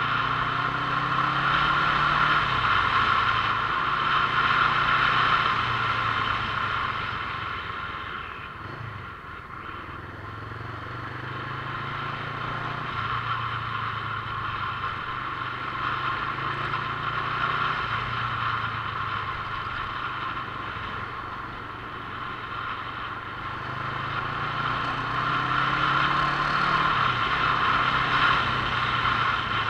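Motorcycle engine running while riding, over a steady rushing noise. Twice, once near the start and once near the end, the engine note climbs and then drops suddenly, as at a gear change. Overall loudness dips about a third of the way in and builds again toward the end.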